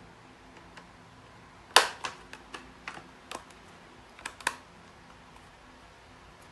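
A quick run of about a dozen sharp clicks and taps of small hard objects, starting about two seconds in and ending a little past the middle, the first one the loudest.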